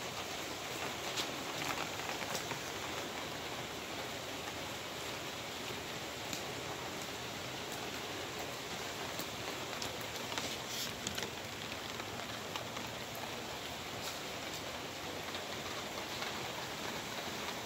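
Steady rain falling on a wet concrete patio, an even hiss, with a few sharper drop taps now and then, most prominent about a second in, around two seconds in, and around eleven seconds in.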